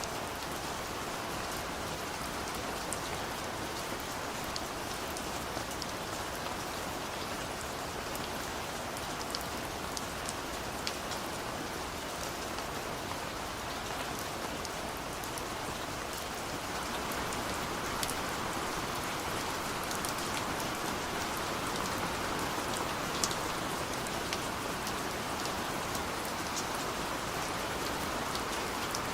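Steady rain falling, an even hiss with individual drops pattering sharply against it. The rain grows slightly heavier a little past the halfway point.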